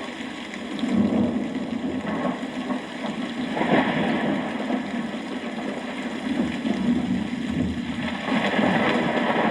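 Rain falling steadily as a continuous hiss, getting louder in surges about a second in, near four seconds, and again near the end.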